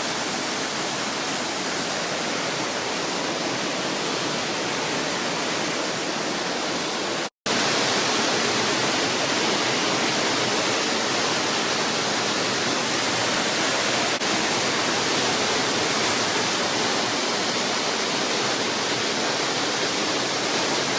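Waterfall: a steady rush of falling water. It cuts out for a split second about seven seconds in, then resumes a little louder.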